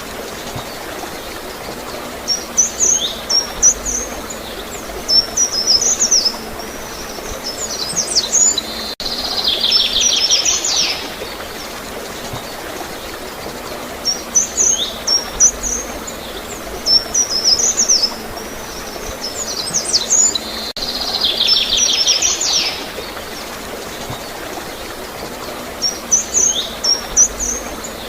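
Small songbirds singing in short clusters of high chirps and sweeps, with a fast rattling trill twice, over a steady wash of flowing water. The same sequence of calls comes round again about every twelve seconds.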